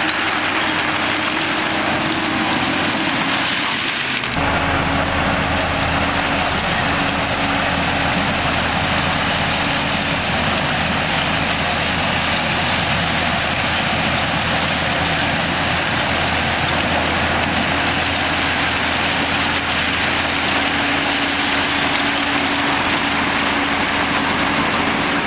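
Heavy diesel engine of earthmoving machinery running steadily with a constant hum. The sound changes abruptly about four seconds in, then carries on steadily.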